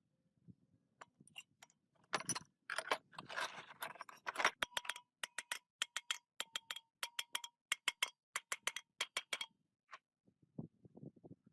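A run of sharp metallic clicks and clinks, several a second, many leaving a brief ring at the same pitch, with a short stretch of scraping among them. It starts about two seconds in and stops near the ten-second mark.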